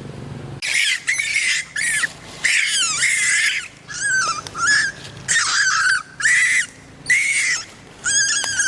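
Baby monkey crying out in a rapid series of shrill calls, each with a wavering pitch, about a dozen in all, starting about half a second in.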